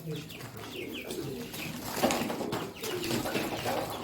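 Birds calling softly: a few short high chirps and low cooing calls among the poultry, with light rustling.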